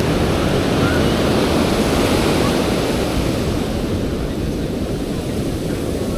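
Ocean surf breaking on a sandy beach, a steady rush of waves that swells about two seconds in and then eases off.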